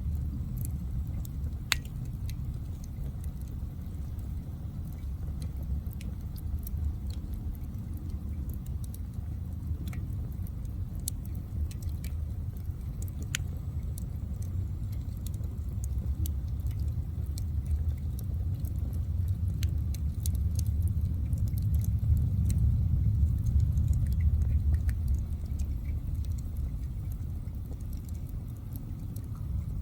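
Bonfire burning: a steady low rumble of flames with scattered sharp crackles and pops, the rumble swelling somewhat past the middle.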